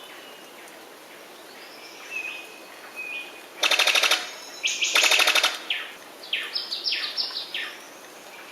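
Bird calls over a steady hiss: two short whistled notes, then two loud, fast rattles, then a quick run of short notes that each fall in pitch.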